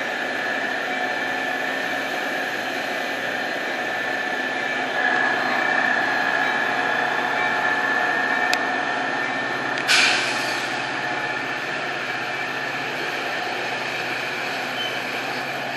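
Metra bilevel commuter train at the station platform: a steady mechanical hum with a high steady whine, a faint click about eight and a half seconds in and a short sharp burst of noise about ten seconds in.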